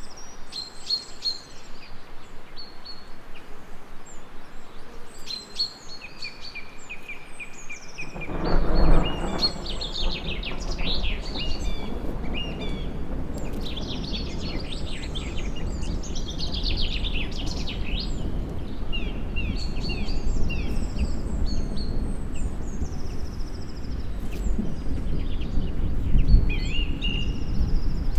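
Several birds singing, with many short chirps and trills. About eight seconds in, a low rolling rumble sets in under the birdsong and carries on, swelling loudest near its start and again near the end.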